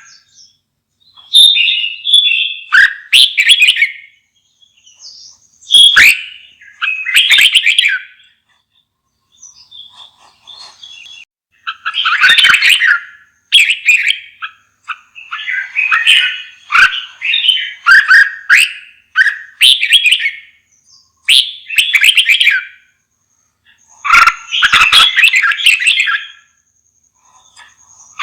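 Red-whiskered bulbul singing: short warbled phrases repeated every second or two with brief pauses, with a quieter stretch of soft calls about a third of the way in.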